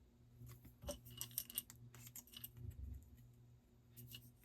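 Faint rustling and light clicks of paper die-cut pieces being handled, over a steady low electrical hum.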